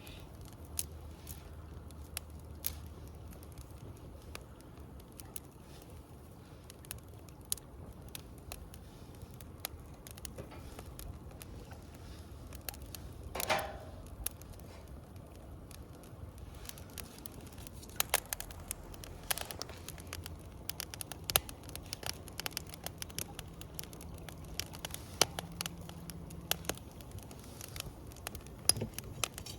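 Campfire of burning wood crackling and popping irregularly, with pops coming more often in the second half and one louder burst about halfway through.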